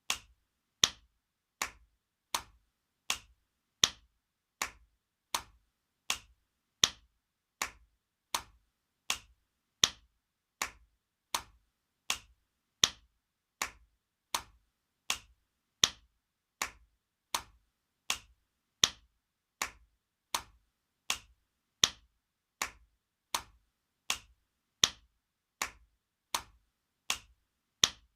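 Spanking sound effect, an open hand slapping skin, looped. Sharp slaps come evenly, about four every three seconds, and the first of each group of four is louder.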